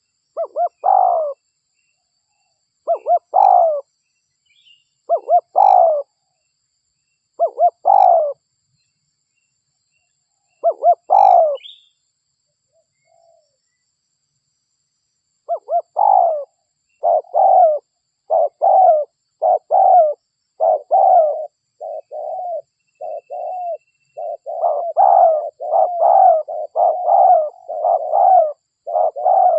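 Spotted dove (derkuku) cooing. Five separate phrases come about every two and a half seconds, each a couple of short notes leading into a longer coo. After a pause of about three seconds, the coos come quickly one after another for the rest of the stretch. Faint high chirps sound now and then in the first half.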